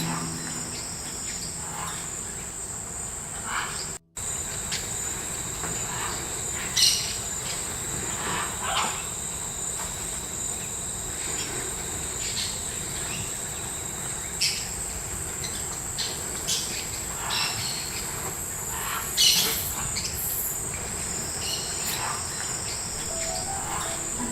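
Rainforest insects keep up a steady, high-pitched drone, with scattered short bird calls over it. The sound cuts out briefly about four seconds in.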